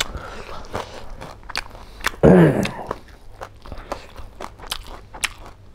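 Close-miked chewing of a mouthful of rice and pork curry eaten by hand: wet clicks, smacks and crunchy bites, with one short vocal sound about two seconds in.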